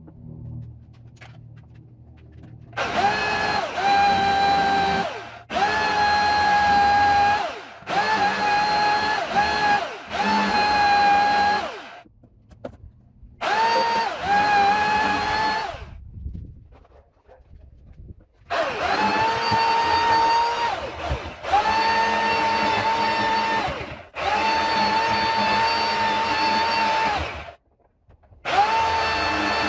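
Chainsaw cutting out a boat's rotten wooden transom core, run in repeated bursts of a few seconds each with short pauses between. Each burst is a steady high whine.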